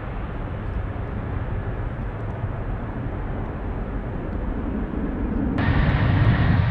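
Jet airliner engine noise, a steady low rumble. About five and a half seconds in the sound changes abruptly and gets louder, with a thin steady whine added.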